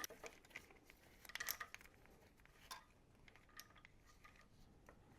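Faint, scattered metallic clicks and clinks of a timing chain tensioner and chains being handled and wiggled into place.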